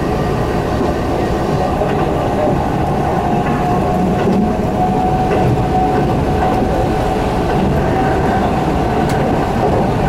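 Cabin noise of a Keihan electric train running at speed: a steady rumble of wheels and running gear, with a faint steady whine.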